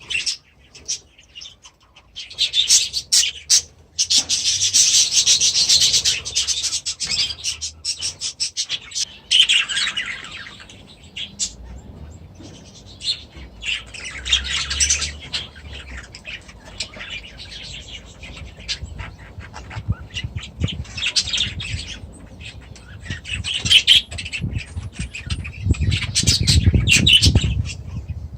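Budgerigars and other aviary birds chattering and chirping in short stretches that start and stop abruptly, with a low rumble near the end.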